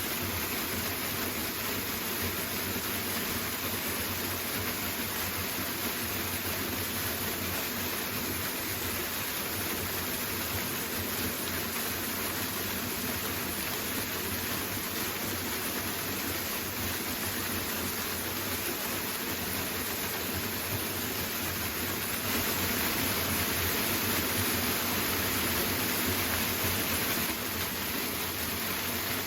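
Waterfall rushing steadily, an even wash of falling water that swells slightly for a few seconds in the second half.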